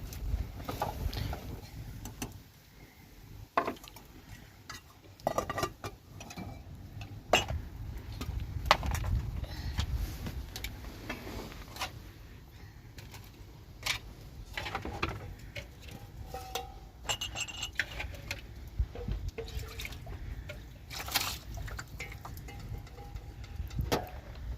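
Irregular knocks and clinks of things being handled, some with a short ring, over a steady low rumble.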